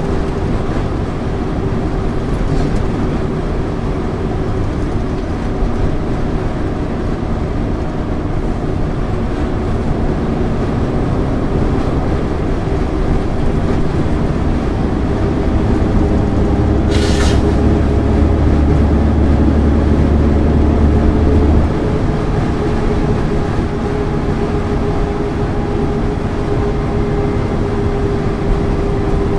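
1999 MAN ÜL 353 intercity bus under way, its diesel engine and road noise steady. A deeper drone swells for about five seconds past the middle, with a short hiss as it starts.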